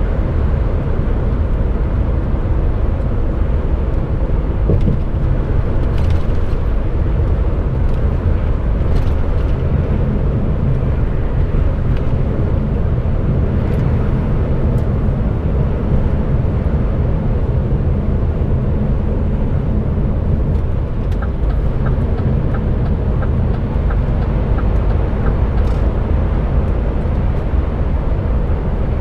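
Steady drone of an HGV container lorry on the move, heard from the cab: engine and road noise heaviest in the lows. A short run of faint, evenly spaced ticks comes about two-thirds of the way in.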